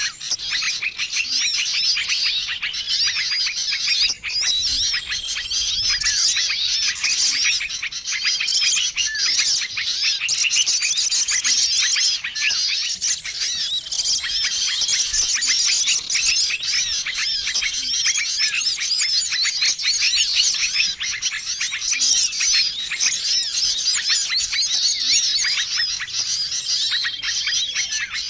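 Bird-lure recording of many small songbirds calling at once: a dense, unbroken chatter of quick high chirps and trills, with a short level whistle recurring every couple of seconds.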